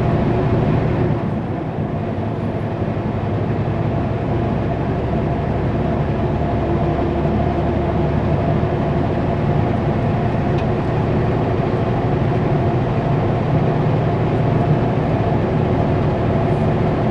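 Kenworth W900L semi truck's diesel engine running steadily as it pulls a heavy Super B load, with road noise underneath.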